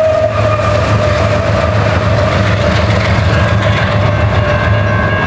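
BNSF diesel-electric freight locomotive passing close by at the tail of a coal train. A steady, pulsing engine rumble and wheel-on-rail noise run together with a steady whine that sinks slightly in pitch as it goes past.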